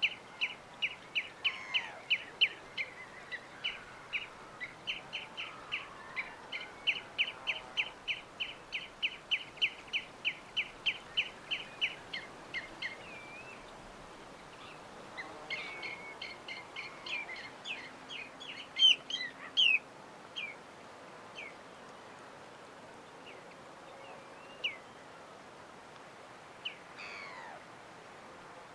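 Small birds chirping: a long run of quick, evenly repeated chips, about two or three a second, for the first dozen seconds, then scattered chirps and short calls, over a faint steady background hiss.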